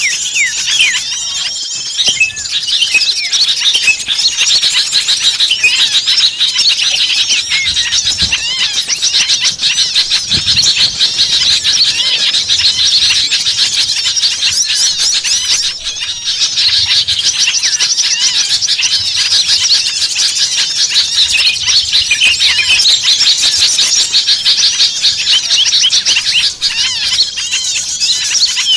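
A noisy chorus of many small birds chirping and twittering over one another, with rapid high trills and squeaky calls without a pause: an agitated small-bird chorus of the kind used as a lure to call birds in.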